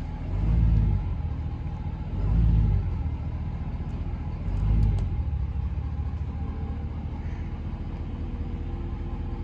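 Pickup truck engine running as it backs slowly toward a gooseneck trailer, rising and falling in low rumbling swells three times as the throttle is eased on and off.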